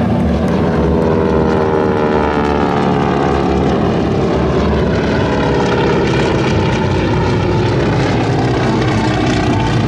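P-51 Mustang warbird making a low pass, its piston engine and propeller droning loudly. The engine's pitch slides steadily down as it goes by.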